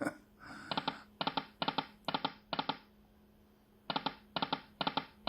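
Timber Wolf slot machine's reels stopping one after another: five short clicky stop sounds about half a second apart, then after a pause of about a second another run of reel stops for the next spin, over a faint steady machine hum.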